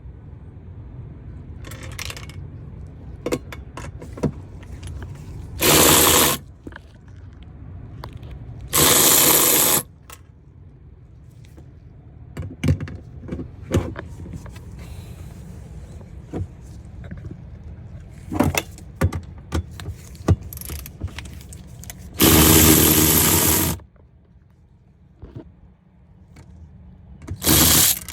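Four short runs of a cordless power tool, each about a second long, with clicks and clinks of tools and parts being handled between them.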